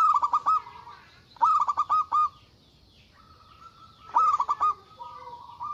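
Zebra dove (perkutut) cooing: three loud bursts of quick stuttering notes, about a second and a half apart and then again after a pause, linked by softer drawn-out coos.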